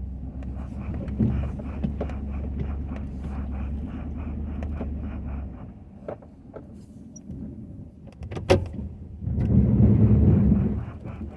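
Ford F-250 pickup with a Western snow plow, its engine running steadily with scattered knocks and clicks. A sharp bang comes about eight and a half seconds in, then a louder rushing surge lasts about a second and a half.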